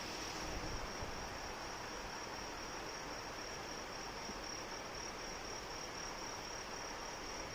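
Steady rain falling, with an insect trilling continuously at one high pitch.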